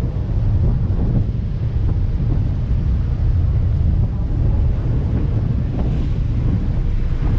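Strong wind buffeting the microphone aboard a ferry under way, a heavy gusting rumble over the rush of the sea.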